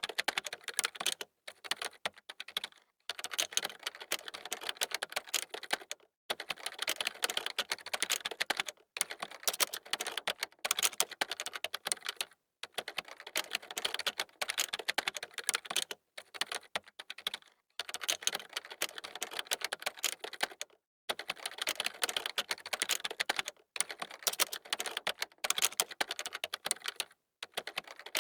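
Computer keyboard being typed on quickly: dense runs of key clicks broken by short pauses every few seconds.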